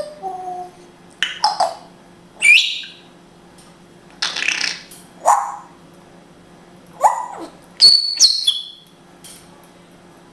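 African grey parrot giving a series of about eight short calls and whistles, roughly one every second, some sliding up or down in pitch.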